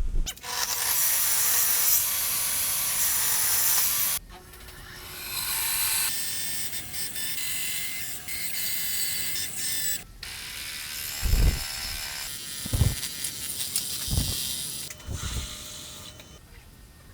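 Workshop tool noise: a steady, loud, hissing run for a few seconds, then scraping and rattling, then four dull knocks.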